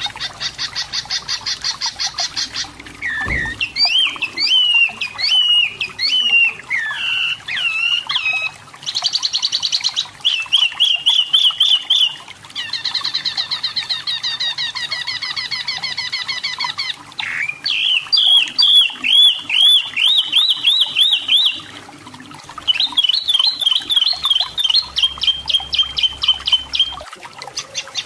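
Wambi mini (tepus lurik) singing: high-pitched phrases of fast repeated notes and chattering trills, each lasting a few seconds, with short gaps between them.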